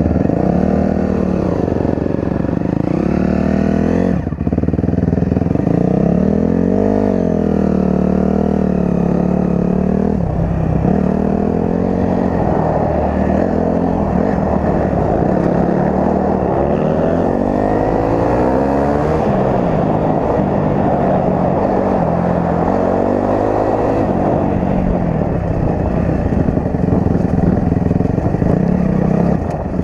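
Dirt bike's four-stroke engine running while ridden, a Honda CRF250R. Its pitch keeps rising and falling as the throttle opens and closes.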